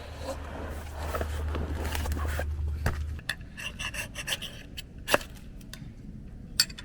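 Scraping and rubbing for about three seconds over a steady low hum, then scattered light clicks and taps, with one sharper knock about five seconds in.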